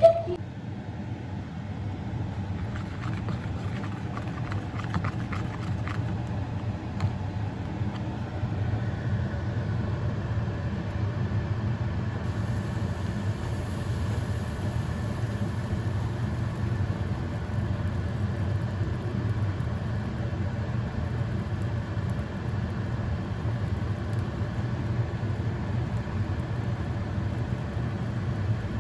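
Steady low rumble of a car driving, its engine and road noise running evenly.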